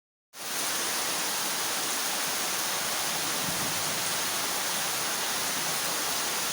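Heavy rain pouring steadily in a downpour, cutting in abruptly a moment in after dead silence.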